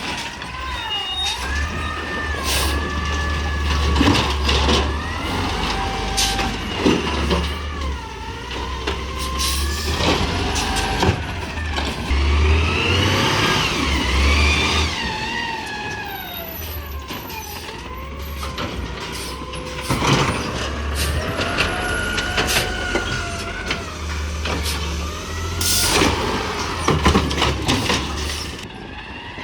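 Peterbilt 320 garbage truck with an Amrep automated side-loader, its engine revving up and down repeatedly to drive the loader's hydraulics. Several sharp bangs are mixed in.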